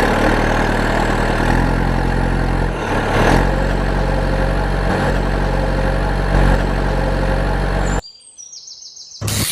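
A heavy vehicle engine running steadily, stepping up in pitch about one and a half and three seconds in. It cuts off suddenly near the end, leaving a quieter moment with a few high chirps, then a short loud burst.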